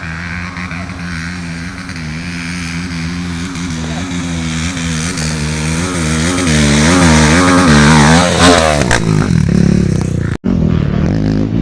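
Dirt bike engine running, then revving up and down in quick throttle pulses as it gets louder, peaking about eight seconds in. The sound breaks off abruptly near the end, where another engine sound takes over.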